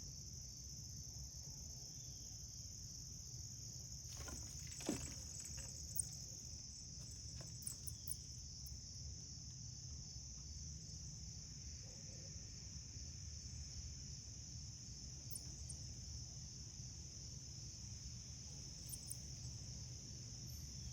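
Steady, unbroken high-pitched chorus of insects, with a low rumble underneath. A few short clicks and knocks come about four to eight seconds in.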